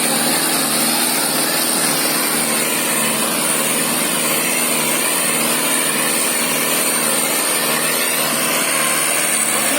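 Powertrac Euro 60 tractor's diesel engine running at a steady speed.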